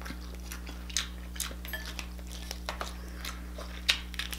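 Close-miked chewing and lip-smacking on king crab and shrimp, with scattered small wet clicks. Near the end a crab leg shell is pulled apart, giving the loudest crack. A faint steady low hum runs underneath.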